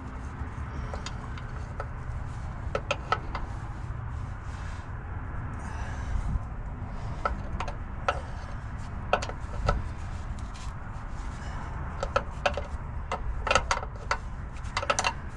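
Scattered short clicks and knocks of hand tools and fuel-line fittings being handled on a Detroit Diesel 6-71 engine while its fuel system is bled, over a steady low rumble.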